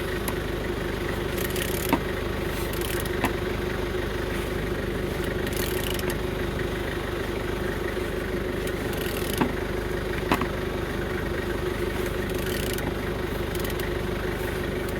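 A steady mechanical hum, like a motor running, with a few short sharp clicks over it.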